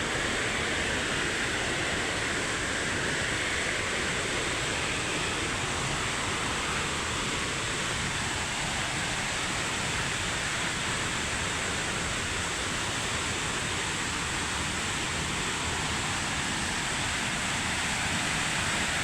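Victoria Falls' water pouring into the gorge at its low dry-season flow: a steady, even rushing that does not change.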